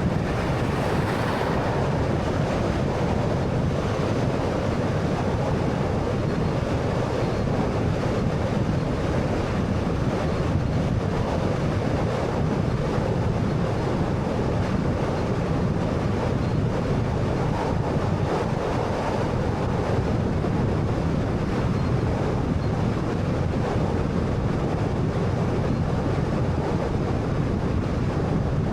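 Steady road noise from a moving 2013 Honda Fit: tyre and wind rush, even throughout, with no sudden sounds.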